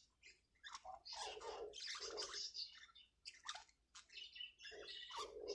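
Budgerigars chattering and warbling: a quick, continuous run of short chirps and scratchy warbled notes.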